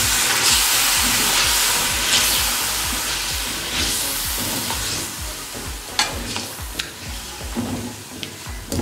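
Chicken and yogurt sizzling in hot oil in a karahi (wok) while being stirred and scraped with a silicone spatula. The sizzle dies down gradually as the yogurt is mixed in, and a few sharp clicks come in the second half.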